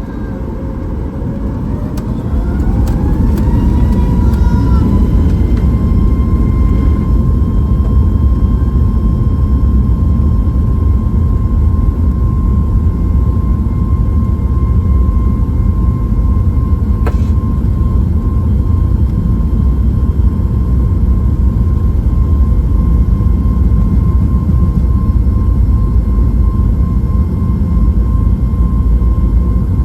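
Boeing 737 MAX 8's CFM LEAP-1B engines heard from inside the cabin, spooling up: a whine rises over the first few seconds and then holds steady under a loud, steady rumble, as on a takeoff run. There is a single brief click partway through.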